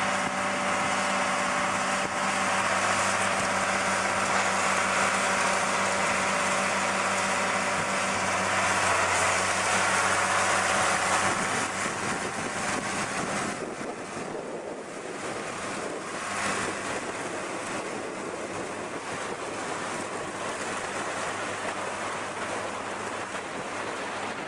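Engine of a farm machine running steadily with a low hum and a broad mechanical rush; about 13 seconds in the hum fades and a quieter, noisier wash carries on.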